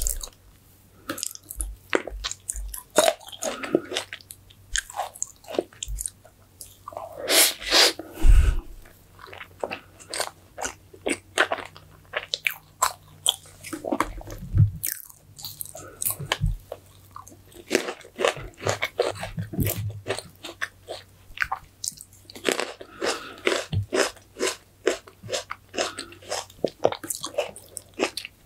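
Close-miked eating sounds: a person chewing and biting into green grapes and strawberry fresh cream cake, with many short wet crunches and mouth clicks. A louder cluster of bites comes about eight seconds in.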